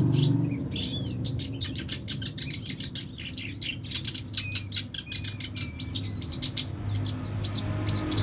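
Songbird singing a busy, continuous run of quick high chirps and short whistles, the lively 'gacor' song prized by Indonesian bird keepers. A low steady hum lies under it.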